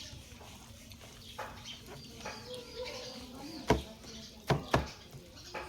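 Quiet eating sounds of chewing, with a few sharp clicks in the second half.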